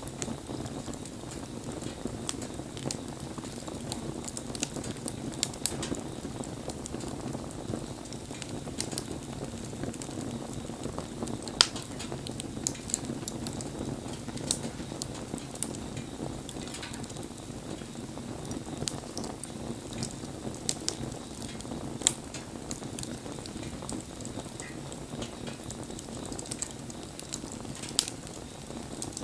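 Wood bonfire burning: a steady low rush of flames with frequent sharp crackles and pops, a few of them louder.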